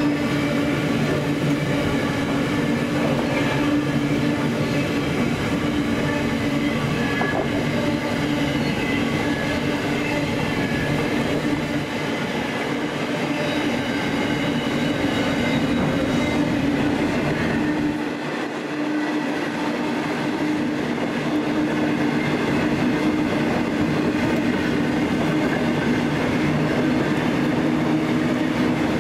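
Container freight train's wagons rolling past on the rails: a steady rolling noise with a hum of several held tones.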